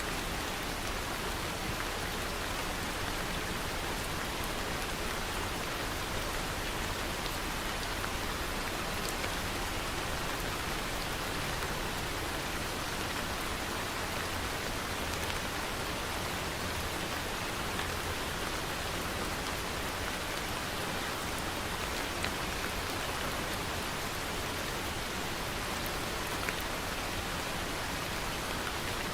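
Steady rain falling and pattering on surfaces, with a few separate louder drops standing out now and then.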